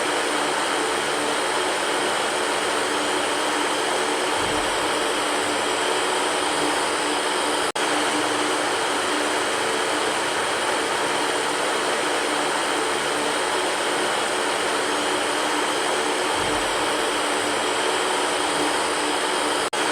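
Electric fan running steadily: an even rush of moving air with a faint motor hum underneath, broken only by a momentary dropout about 8 seconds in.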